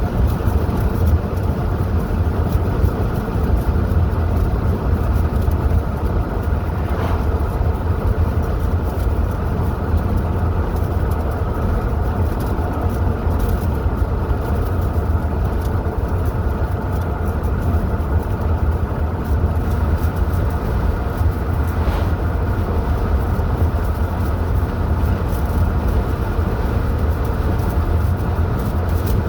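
A car driving at a steady speed: a continuous low rumble of engine and road noise.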